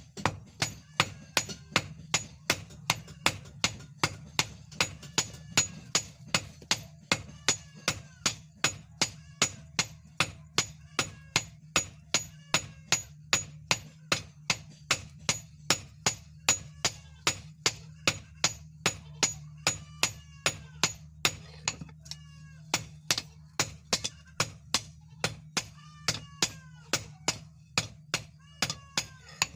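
Hammer blows on hot leaf-spring steel over an anvil in a steady rhythm, about two to three blows a second, each with a short metallic ring, over a steady low hum.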